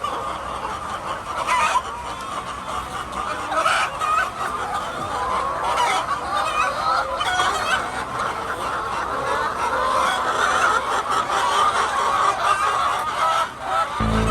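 A flock of laying hens clucking and chattering together, many overlapping calls at once.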